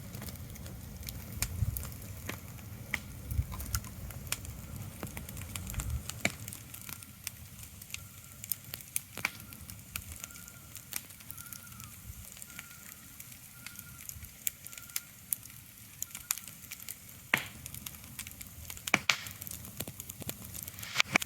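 Irregular sharp crackling clicks over a faint steady hiss, with a low rumble that drops away about six seconds in. A faint, repeated high-pitched note sounds through the middle.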